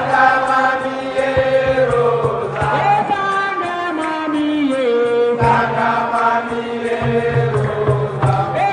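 Live singing: long held vocal notes that slide downward at the ends of phrases, over a steady low accompaniment.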